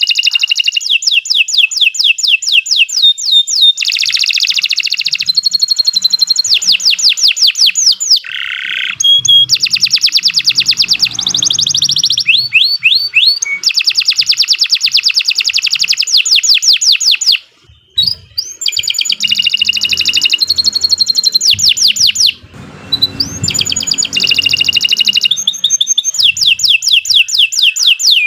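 Domestic canary singing a long, loud, high-pitched song of rapid trills, one fast rolling phrase after another, with one brief pause about two-thirds of the way through.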